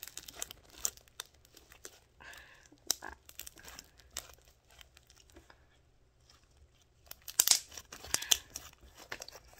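Homemade white-glue slime with shaving cream, conditioner and baby powder being squished and stretched by hand: irregular sticky crackles and pops, in a dense cluster about seven to eight and a half seconds in.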